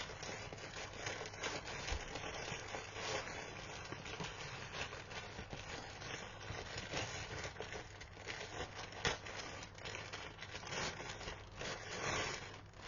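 Packaging wrapping being handled and crumpled: a continuous crinkling and rustling with scattered small crackles.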